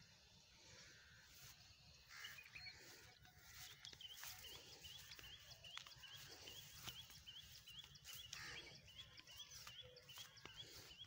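Faint bird calling, a short high chirp repeated about two or three times a second, starting a few seconds in.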